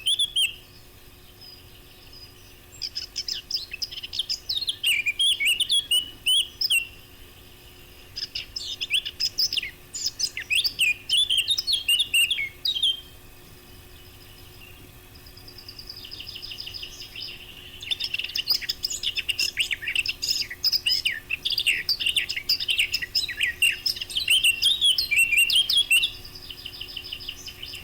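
Eurasian blackcap singing: several long phrases of rapid, varied warbling with short pauses between them. Each phrase, the last most clearly, begins with a softer run of quick repeated notes and builds into loud, clear, fluty notes.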